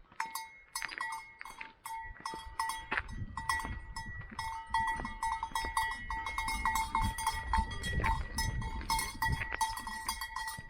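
Many livestock bells clanking and ringing irregularly, as a grazing flock moves about, with a low rumble underneath.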